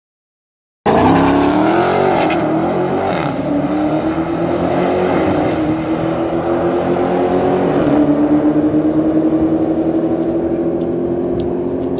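Car engine running hard under acceleration on a drag strip. It cuts in abruptly about a second in, and its pitch climbs slowly with a couple of small dips along the way.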